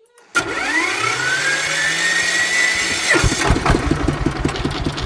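Vehicle engine being started: a starter whine rising in pitch for nearly three seconds, then the engine catches and runs with a fast, even beat.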